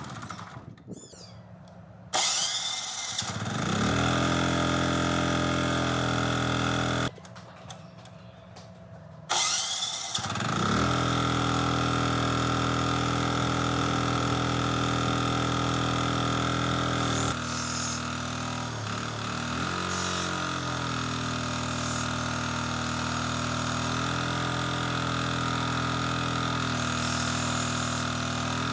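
Restored Yanmar generator's engine run-down and restarts: it winds down and stops at the very start, starts again about two seconds in and runs, stops abruptly about seven seconds in, then starts once more and runs steadily, its note shifting slightly about seventeen seconds in.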